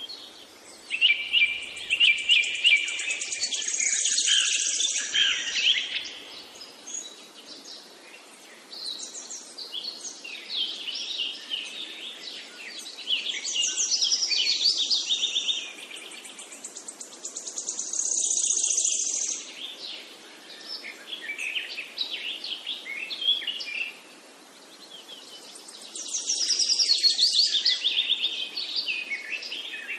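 A songbird singing in long phrases of fast, high trills and chirps, with short pauses between phrases.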